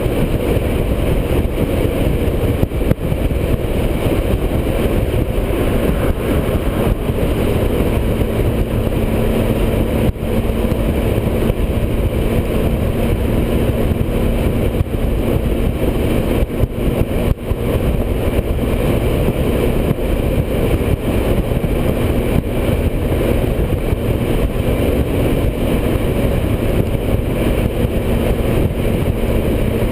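Touring motorcycle riding at highway speed: steady rushing wind noise over its engine running at an even pace.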